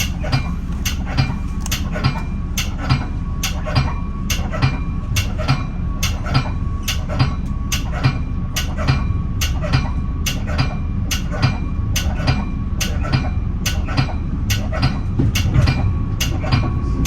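Metra bi-level commuter coach rolling over the rails: a steady low rumble with regular wheel clicks about twice a second.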